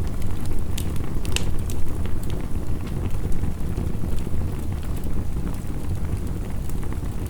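Wood fire crackling with scattered sharp pops, over a steady low rushing wash of heavy rain.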